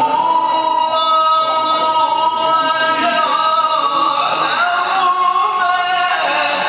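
A male Quran reciter chanting a verse in melodic tajweed, holding one long ornamented note for about three seconds, then starting a new phrase that winds up and down in pitch.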